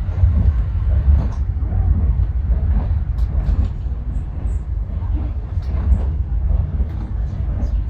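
Kenya SGR passenger train running along the line: a steady low rumble with scattered light clicks and rattles.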